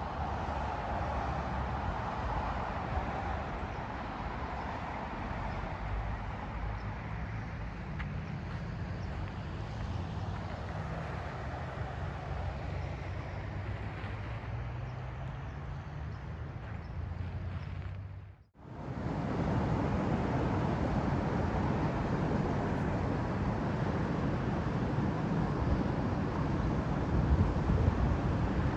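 Steady rushing pink noise. It cuts out for a moment about two-thirds of the way through, then comes back.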